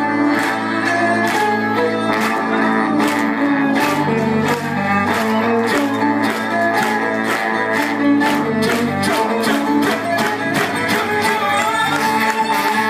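Live gypsy folk band with violin and strummed acoustic guitar playing a Romanian-inspired bulgar over a quick, steady beat.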